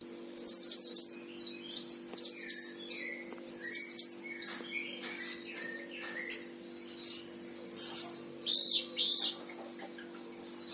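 A mantenan Himalaya songbird singing steadily: rapid high twittering phrases for the first few seconds, then a run of separate clear, arching whistled notes. A faint steady hum sits underneath.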